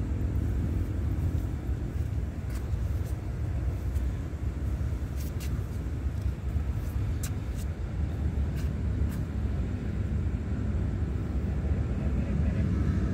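Low, steady rumble of a diesel train approaching from a distance, growing slightly near the end, with a few faint sharp clicks.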